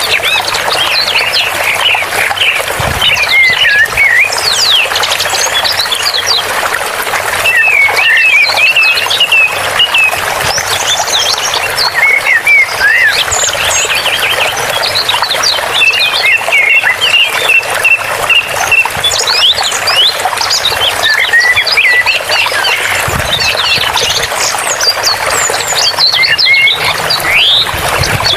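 Running water, a steady rushing hiss, with many small birds chirping and singing over it: quick rising and falling notes and warbles throughout.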